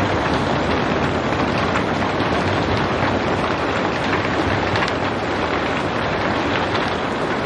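Steady, even rain with no thunder, a dense hiss of falling drops with scattered individual drop ticks.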